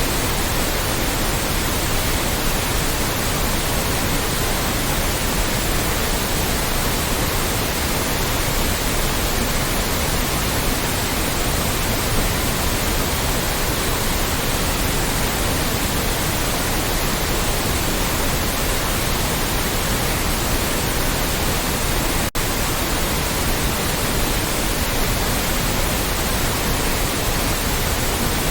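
Loud, steady white noise: an even hiss across all pitches, with a split-second dropout about 22 seconds in.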